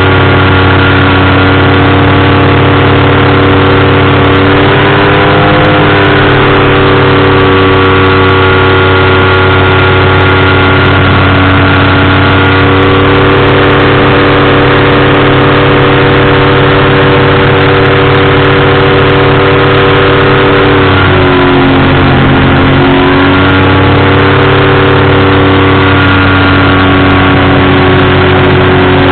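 Powered parachute's engine and propeller running steadily in flight, loud and close. The pitch dips for a couple of seconds about two-thirds of the way through, then comes back up.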